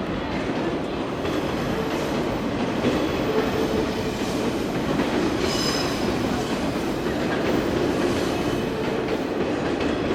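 Train running along the rails: a steady rumble of wheels on track, with a brief high wheel squeal about halfway through.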